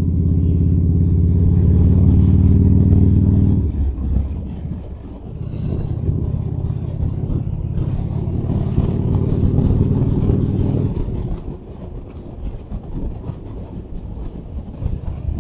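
Harley-Davidson Fat Boy's V-twin engine pulling hard at speed, heard from the rider's helmet mic. Its note drops away briefly about four seconds in, pulls again until about eleven seconds in, then eases off to a quieter rumble under wind noise.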